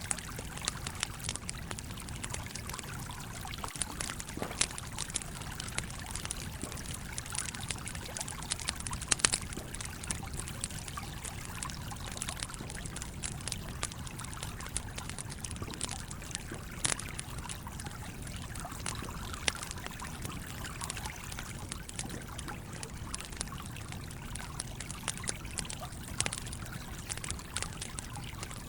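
A stream flowing steadily, with a wood campfire crackling over it in scattered sharp pops at irregular intervals.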